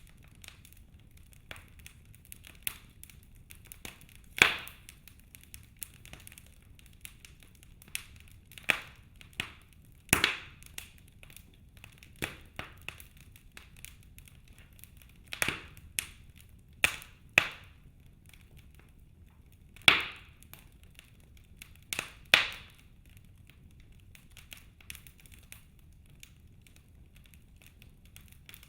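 Wood fire in a fireplace crackling, with sharp, irregular pops every second or two over a faint low rumble.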